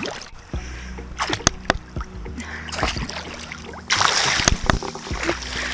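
Ocean water splashing and sloshing close to the microphone as a person swims, with sharp little splashes throughout and a louder stretch of churning water about two-thirds of the way in, over a steady low hum.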